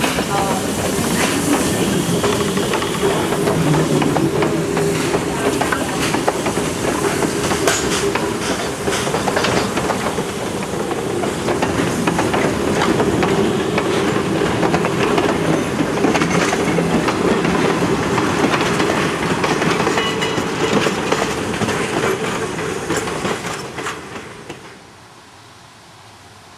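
Steam-hauled passenger train rolling past, led by a JS-class 2-8-2 steam locomotive: the coaches' wheels click steadily over rail joints, with some steam hiss. Near the end the train sound cuts off abruptly to a faint hush.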